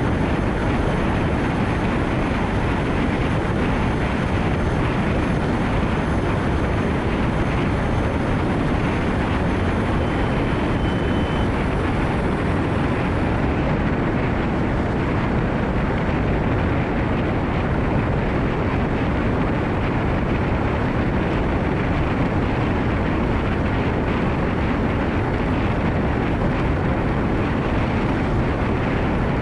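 Steady noise of a Nissan Note e-POWER driving in heavy rain: tyres on a wet road with rain and wind noise.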